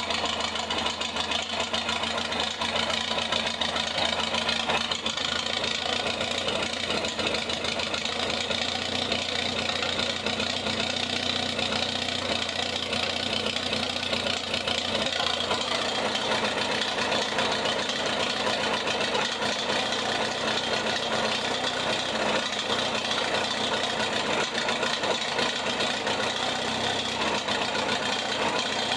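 Gasoline engine running steadily, newly reassembled with its carburetor, intake manifold and exhaust pipe.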